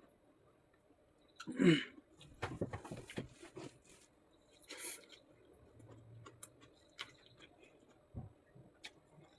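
A person eating pork: wet chewing and mouth smacks with scattered small clicks, and a short vocal sound falling in pitch about one and a half seconds in.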